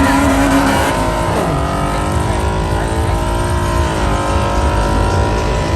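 Car engine revving at high rpm. Its pitch falls and climbs again about a second in, dips once more near four seconds, then holds high.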